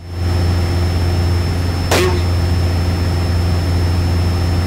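Cessna 172's piston engine and propeller droning steadily in cruise, heard inside the cockpit. There is one brief click about two seconds in.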